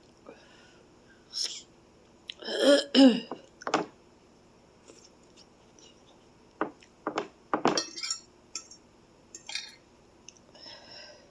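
Sounds of someone eating spicy noodles: a short cough about two and a half seconds in, then a scatter of sharp clicks and clinks of a utensil against a bowl, with mouth sounds between.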